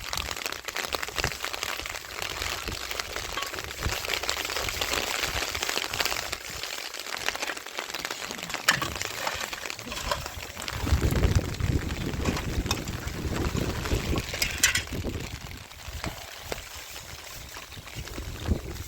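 Steady rain falling, an even hiss with a few sharp taps of drops, and a low rumble in the middle.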